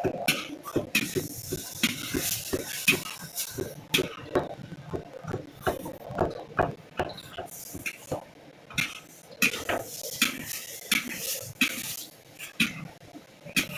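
Cooking utensils clattering and scraping against pots and dishes: a quick, irregular run of metal taps and clinks, with two longer stretches of hiss.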